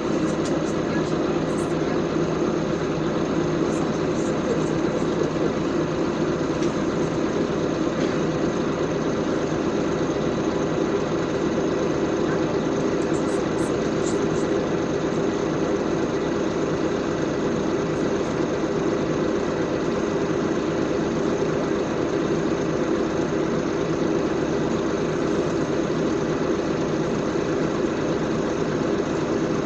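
LiAZ 5292.65 city bus heard from inside the passenger cabin: the engine runs at a steady pitch with a constant hum and rumble.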